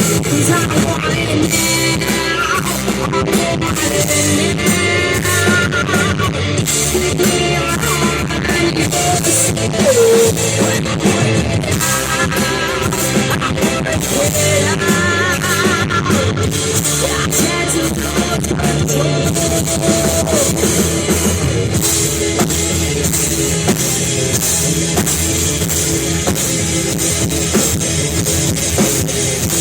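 Live rock band playing an instrumental passage: a guitar lead with wavering, bent notes over a drum kit and bass.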